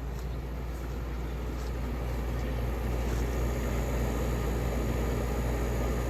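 1966 Admiral Royal 106 window air conditioner running on high: a steady low hum with an even fan rush, growing slightly louder about halfway through.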